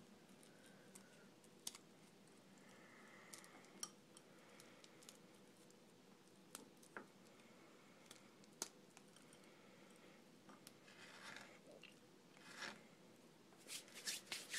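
Faint, scattered crunches and clicks of a crunchy oats-and-honey granola bar being crumbled by hand, with long quiet stretches between them.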